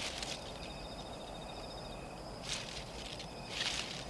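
Crickets trilling steadily in a night-time ambience, with two short hissing bursts about two and a half and three and a half seconds in.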